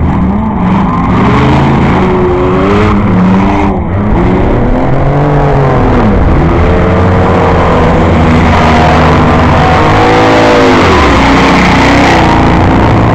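Several race car engines running hard at once, their pitches climbing and dropping as they accelerate and lift off. A rising rush of noise builds about two-thirds of the way in as cars come close.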